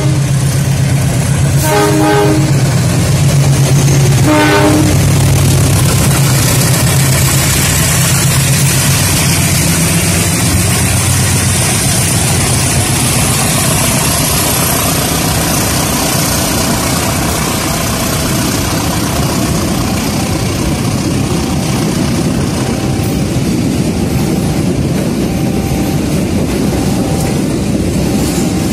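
A CC 201 diesel-electric locomotive (GE U18C) passes close by under heavy throttle, giving two short horn toots in the first five seconds over a loud, low engine drone. After about twelve seconds the engine fades and the steady rumble and clatter of passenger coaches rolling past takes over.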